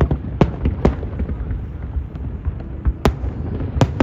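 Aerial fireworks bursting: sharp cracks and bangs at irregular intervals over a continuous low rumble, with three loud bangs in the first second, a quieter spell, then more bangs near the end.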